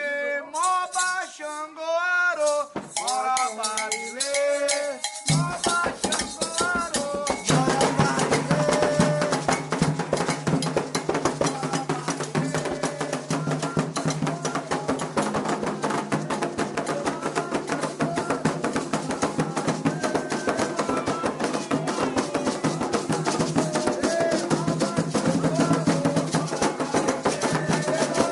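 Candomblé ritual music. A voice chants alone at first; about five seconds in, atabaque hand drums, an agogô bell and shakers come in with a fast, steady rhythm under the singing.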